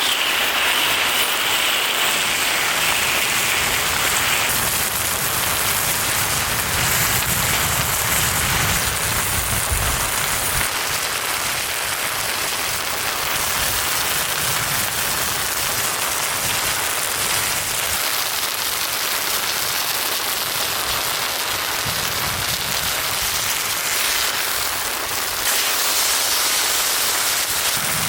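Heavy rain pouring steadily, a dense even hiss of falling water. A low rumble swells in about six seconds in and again past the twenty-second mark.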